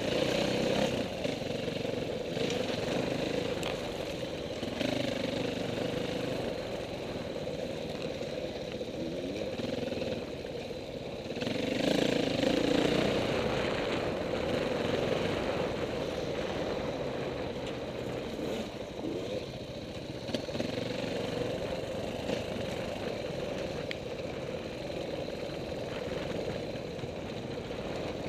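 Dirt bike engine running, its pitch rising and falling with the throttle, loudest about twelve seconds in.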